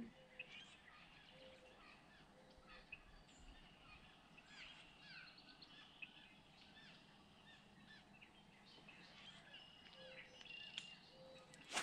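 Faint birdsong: many small birds chirping and singing throughout, with a short low note repeated three times near the start and again near the end.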